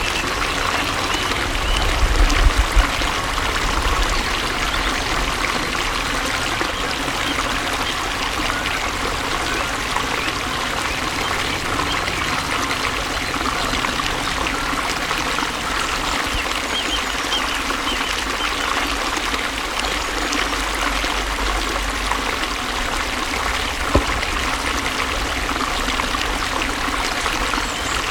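Flowing water trickling and splashing steadily, with a short low rumble a couple of seconds in and a single sharp click near the end.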